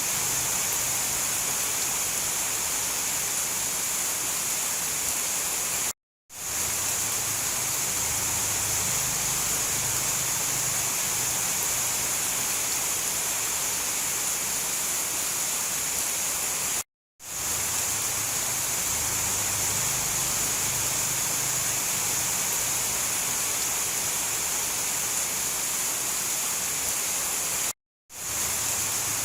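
Steady, even rain hiss with no thunder. It cuts out completely three times, about every eleven seconds, each time for a fraction of a second before fading back in, as at the joins of a looped recording.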